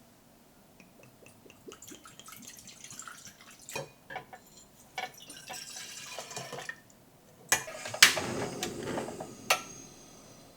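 Kitchen handling sounds: liquid dripping and pouring, with scattered clinks and knocks, loudest in a cluster of sharp knocks a little past the middle.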